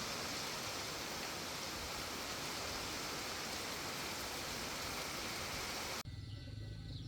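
Heavy rain falling in a steady, even hiss, which cuts off abruptly about six seconds in. Gentle music with bird chirps follows.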